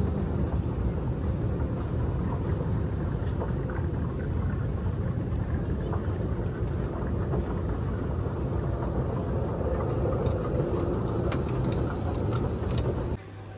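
Loud, steady rumbling noise with no clear tone, which cuts off abruptly near the end.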